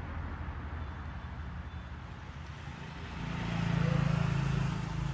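Steady low rumble of road traffic, swelling as a motor vehicle passes about three to five seconds in and then fading.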